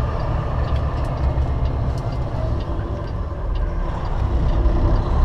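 Semi-truck diesel engine and road noise heard inside the cab while driving, a steady low rumble.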